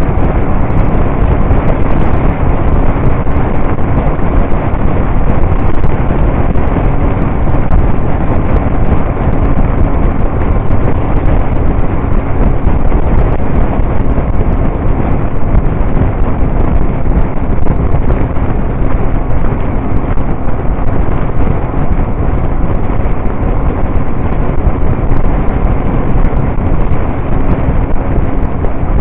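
Motorcycle riding at a steady speed, with heavy wind noise on the microphone and a steady engine drone underneath.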